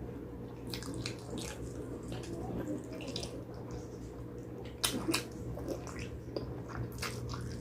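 Close-up wet eating sounds from chewing gelatinous pig trotters: irregular sticky smacks and clicks of the mouth and lips, with a sharper smack about five seconds in, over a steady low hum.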